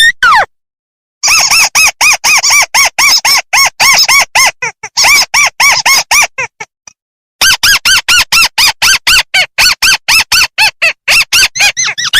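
Crake (burung tikusan) calling: a loud run of rapid, repeated arched squawking notes, about four or five a second, that breaks off for about a second and then starts again in a second run.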